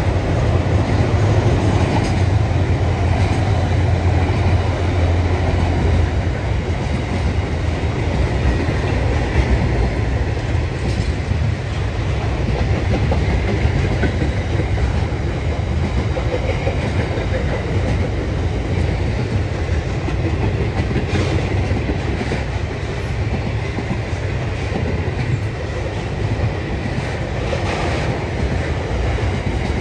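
Container wagons of a long intermodal freight train rolling past: a steady rumble of steel wheels on the rails, with a few sharp clicks standing out later on.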